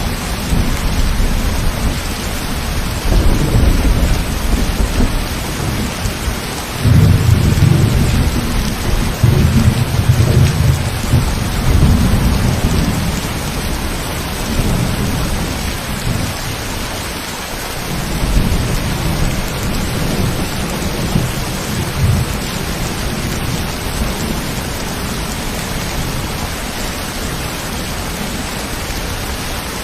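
Steady heavy rain hiss with rolling thunder rumbling low underneath, swelling strongest about a third of the way in, returning more weakly past the middle, then dying away to rain alone.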